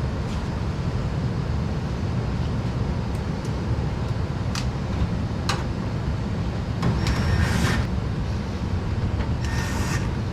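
Handling noise from reassembling an indoor HVAC unit: a few sharp clicks and knocks and two short scraping rustles over a steady low rumble.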